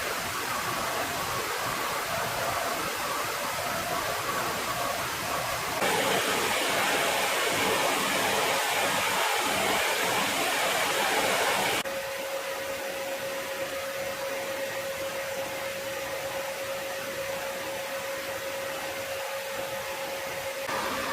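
Jet aircraft engines running, a steady rushing noise that changes abruptly at edits about six and twelve seconds in. The middle stretch is louder and brighter, and the last stretch is quieter with a steady hum.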